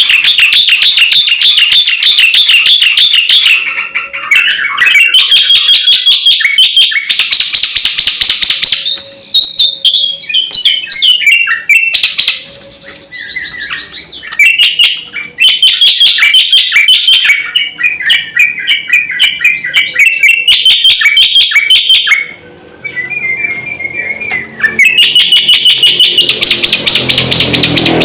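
Black-winged starling (jalak putih) singing at full volume: long bursts of rapid chattering trills and whistled phrases, broken by brief pauses, in a varied song full of filler phrases. A lower pitched sound joins in for the last few seconds.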